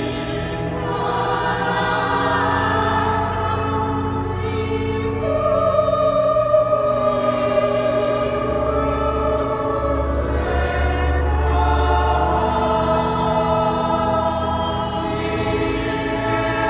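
Choir singing slow, sustained sacred chords in a reverberant cathedral, over long held low bass notes.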